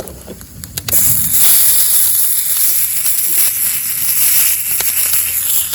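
Meat sizzling on a hot iron griddle plate over a campfire, starting suddenly about a second in and then hissing steadily.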